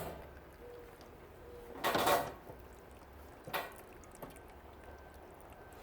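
Tankless water heater being handled as the last of its water is drained: two short noisy bursts of sloshing and knocking about a second and a half apart, then a small tick.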